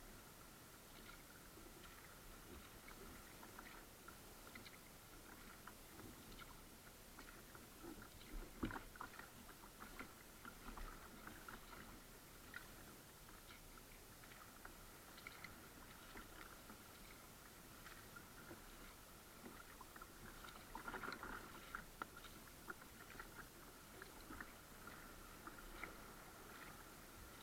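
Faint water sounds of a kayak under way: scattered small drips and clicks from the paddle and hull, with slightly louder splashing around nine seconds in and again around twenty-one seconds in. A faint steady high tone sits underneath.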